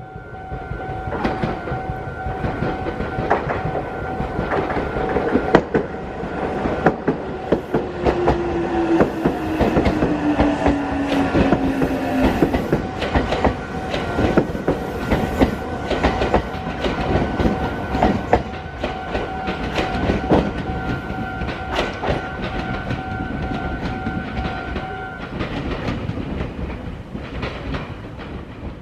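Meitetsu electric train passing through a track junction, its wheels clattering over rail joints and points in a dense run of clicks. About 8 to 12 seconds in, a motor whine falls in pitch. A steady two-pitch ringing runs alongside and stops suddenly about 25 seconds in.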